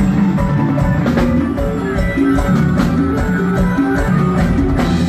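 Live band music with electric guitar, bass and drum kit playing a steady beat between sung lines.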